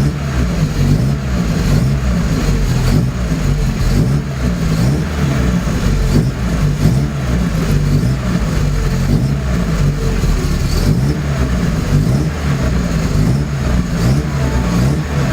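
Datsun 510 wagon's engine idling shortly after start-up, its exhaust note a steady, evenly wavering rumble.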